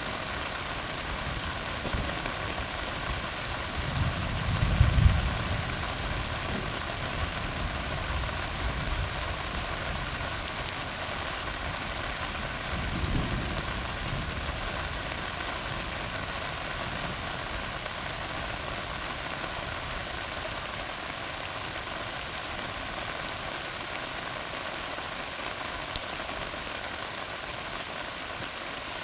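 Steady rain falling on a tar road, an even hiss of drops, with two brief low rumbles, the louder about four seconds in and a weaker one about thirteen seconds in.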